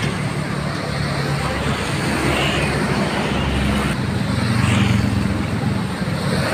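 Diesel engine of a departing intercity bus running over a steady hiss of rain and wet-road traffic. It swells in loudness about five seconds in.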